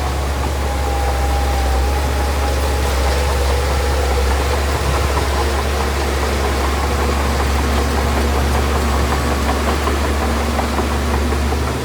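Heavy diesel engine of earthmoving machinery running steadily: a strong low drone with a faint steady whine above it.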